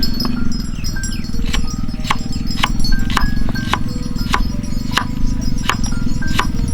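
A knife chopping on a wooden cutting board, sharp knocks about two a second at a slightly uneven pace, over background music.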